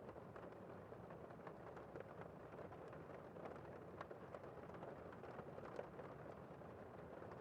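Faint, continuous scratching of pencil strokes on paper, with small irregular ticks as the lead moves.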